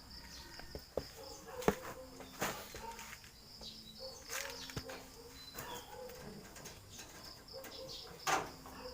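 Domestic pigeons cooing softly in their loft, over a steady high chirring of crickets, with a few sharp clicks and knocks.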